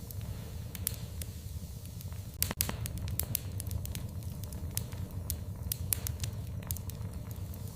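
Wood fire crackling in a fireplace: scattered sharp pops and snaps over a steady low rumble of the flames, with a louder pair of pops about two and a half seconds in.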